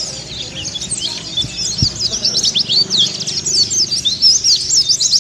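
Pleci (Zosterops white-eye) twittering in a rapid, unbroken stream of short high chirps, growing denser and louder about two seconds in. A faint low thud sounds once just before that.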